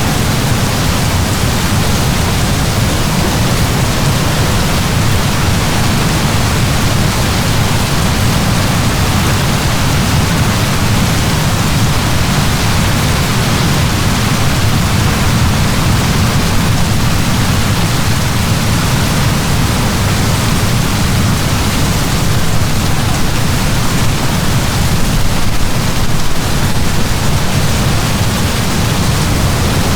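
Heavy downpour of rain, a dense steady hiss with a deep rumble underneath and no breaks.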